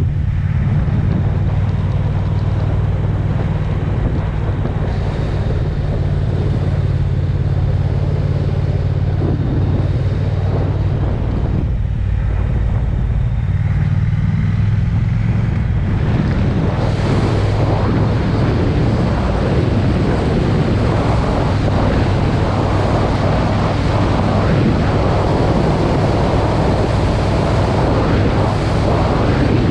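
Triumph Speed Twin's parallel-twin engine running steadily at road speed, with wind rushing over the microphone. The wind rush grows louder about halfway through.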